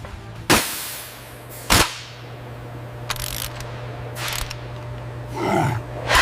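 Workshop sounds over a steady low hum: a few sharp knocks and short hissing bursts, with a falling whoosh near the end and another sharp hit at the very end.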